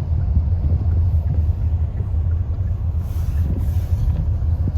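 Steady low rumble of engine and tyre noise heard inside a moving car's cabin.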